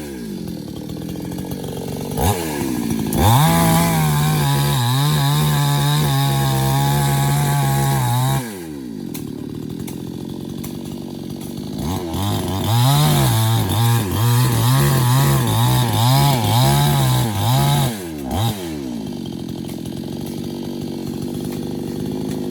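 Chainsaw revved to full speed twice, each time for about six seconds, its pitch wavering as it bites into wood, and dropping back to idle in between.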